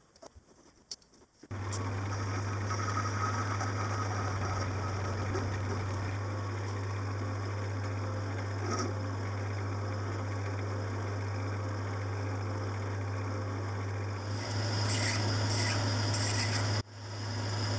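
A machine tool's electric motor running steadily with a strong low hum and a cutting noise over it, starting abruptly about a second and a half in. Near the end a harsher, higher cutting noise joins in.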